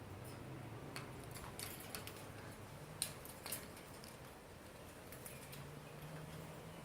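A few faint, sharp clicks and taps, scattered over several seconds with the loudest about three seconds in: a cockatiel's beak and claws on the metal wire of its cage as it climbs out. A low steady hum runs underneath.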